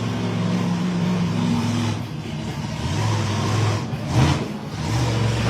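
A 1,500-horsepower monster truck engine running at a steady pitch, then revving up briefly about four seconds in.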